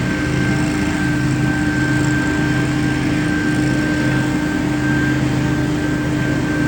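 Powered yard machine's engine running steadily at constant speed, with a steady whine.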